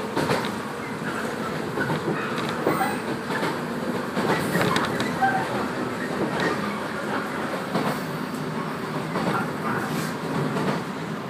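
Running noise inside a 115-series electric multiple-unit train on the move: a steady rumble of wheels on rail, with irregular clacks as the wheels pass over rail joints.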